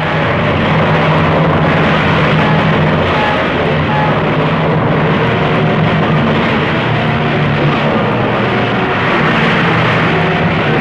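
B-25 bombers' radial piston engines running loud and steady at takeoff power, with a dense rushing noise over a steady low engine tone.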